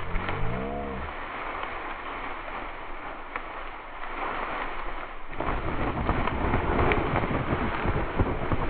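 Wind rushing over the microphone outdoors, a steady rough noise that turns louder and gustier about five seconds in, with a short wavering voice-like tone right at the start.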